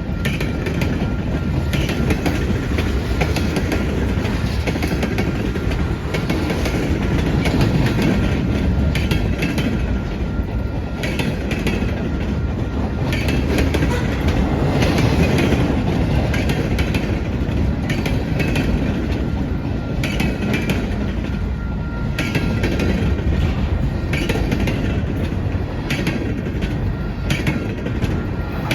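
CSX freight train's cars rolling past, a steady rumble with wheels clicking over the rail joints.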